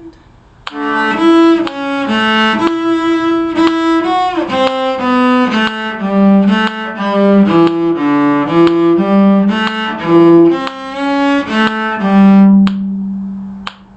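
A bowed string instrument playing a short fiddle-tune phrase note by note, with a deliberate slide between two notes about four seconds in, and ending on a long held low note.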